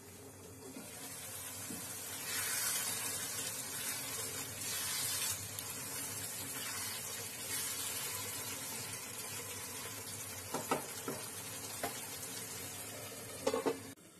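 Onion-ginger-garlic masala with spices and a little water frying down in a kadhai: a steady sizzle, stirred with a wooden spoon, with a few light taps near the end.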